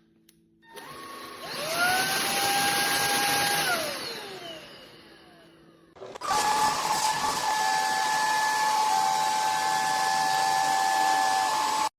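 SKIWEC cordless stick vacuum's motor switching on and whining up to speed about a second in, running briefly, then spinning down with a falling whine. A little after six seconds it is running again at full speed, steady, and it stops abruptly near the end.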